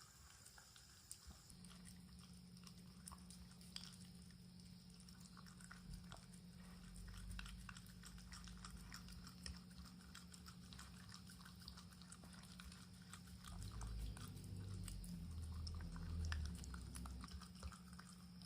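Shiba Inu eating soft chicken-cartilage collagen jelly: faint chewing with many small irregular clicks, and louder low thumps from the dog at the bowl near the end.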